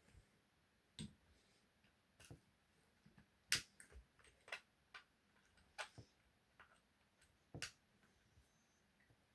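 Irregular light clicks and taps of small tools against the plastic parts of a radio-controlled car as a part is worked loose, the sharpest about three and a half seconds in and again near the end.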